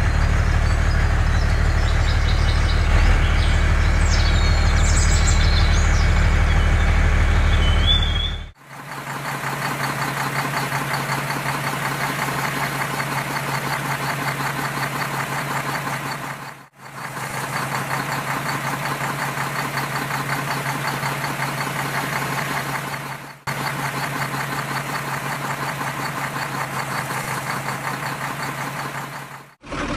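Truck engine running steadily. For about the first eight seconds it is a deep, low rumble; then it switches suddenly to a faster, rattling engine note, which cuts off and restarts twice.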